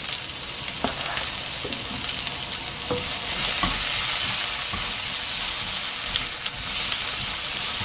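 Sliced onion and garlic frying in oil in a hot nonstick wok as julienned carrots are tipped in and stirred with a silicone spatula: steady sizzling that grows louder about three and a half seconds in, with a few light taps of the spatula.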